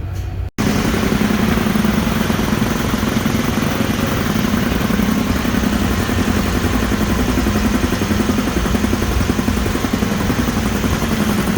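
Loud, steady engine-like mechanical noise with a low wavering hum, starting abruptly about half a second in.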